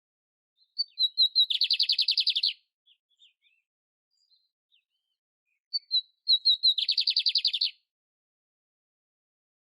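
A canário-império canary singing twice: each phrase opens with a few short, clipped notes and runs into a fast, even trill about a second long, with a pause of a few seconds between the phrases.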